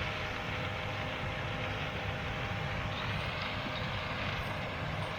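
Combine harvester running steadily while harvesting corn, a constant machine noise with a faint steady hum.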